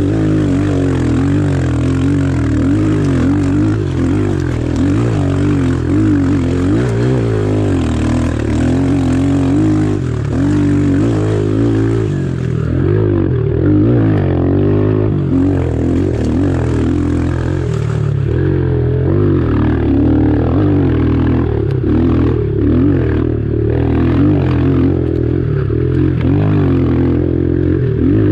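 Pit bike's single-cylinder engine running continuously while being ridden, its revs rising and falling with the throttle.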